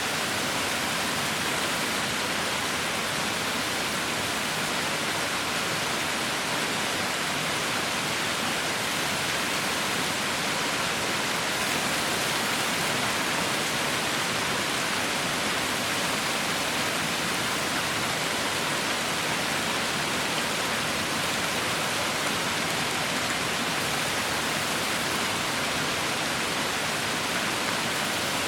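Heavy rain falling in a steady, even hiss, with no separate drops or thunder standing out.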